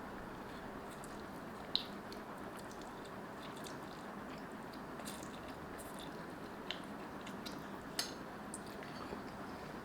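A person chewing and eating instant noodles, with scattered small clicks and ticks, two of them sharper, about two seconds in and near the end, over a steady background hiss.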